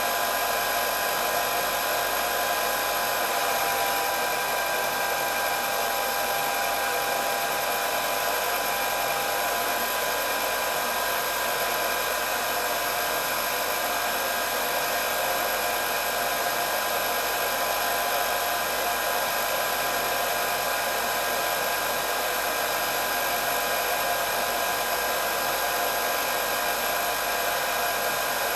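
Hair dryer running steadily: an even rushing hiss of blown air with a faint steady motor whine.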